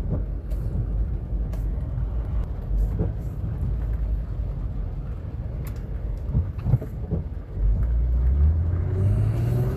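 Car engine and tyre noise, heard from inside the moving car: a steady low rumble with a few faint clicks, the engine note rising near the end as the car speeds up.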